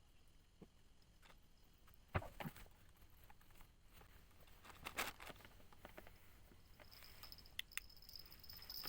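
Near quiet: a few scattered soft knocks, then from about seven seconds in a steady high-pitched insect trill.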